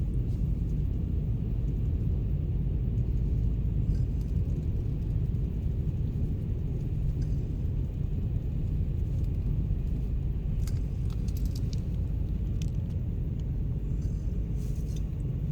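Steady low vehicle rumble, with a few faint ticks here and there.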